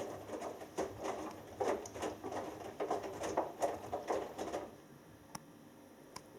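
Hoover Dynamic Next front-loading washing machine's drum tumbling a wet laundry load, with irregular sloshing and splashing. The drum stops about four and a half seconds in, as in the pause before it reverses during the wash phase. Two faint clicks follow.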